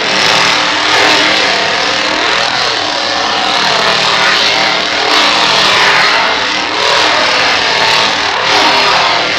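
An engine revving up and down again and again, loud throughout.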